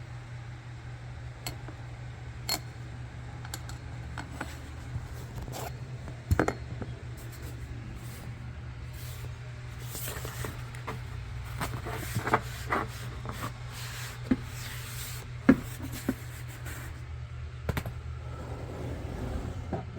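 Scattered clicks, knocks and rubbing as a cut section of camper floor is pried up and flipped back, over a steady low hum.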